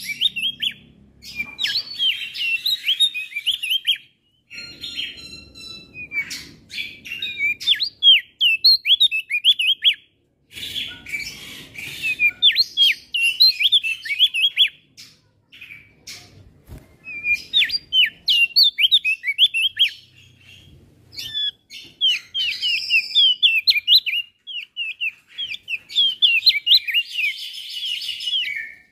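Male opior jambul (Javan grey-throated white-eye) singing: rapid runs of high, down-slurred chirps in bursts of a few seconds, broken by short pauses, with a brief phrase of steady whistled notes a few seconds in.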